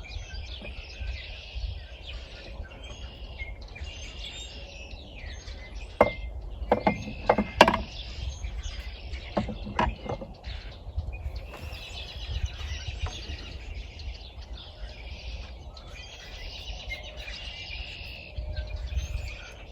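Birds chirping over a steady low rumble, with a cluster of sharp knocks and clinks about six to ten seconds in, one with a brief ringing tone, from tools and parts handled on the outboard engine.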